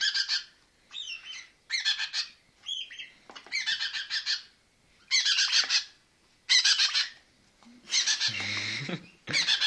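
A baby red-rumped parrot calling over and over: short, high, grainy calls, about one a second.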